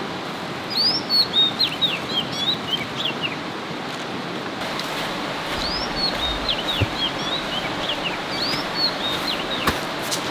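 A songbird singing the same short phrase three times, each a quick rising note followed by a rapid run of falling chirps, over a steady rushing background hiss. A couple of sharp clicks near the end.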